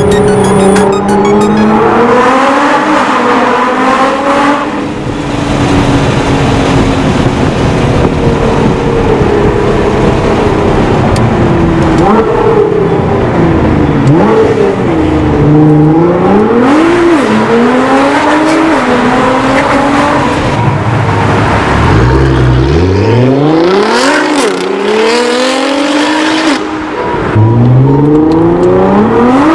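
Nissan GT-R R35's twin-turbo V6 through an Armytrix valvetronic exhaust, revving and accelerating hard. Its pitch climbs and drops back again and again, with quick rising runs in the later part.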